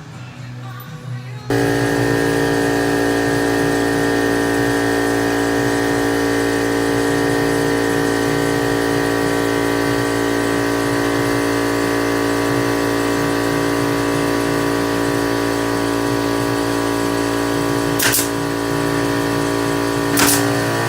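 A small electric motor starts abruptly and runs at a steady whine with a low hum underneath. Two sharp clicks come near the end, about two seconds apart.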